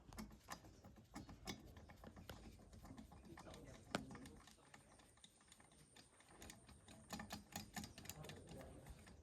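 Faint, irregular small clicks and taps, as of parts and hand tools being handled at a workbench, with one sharper tap about four seconds in.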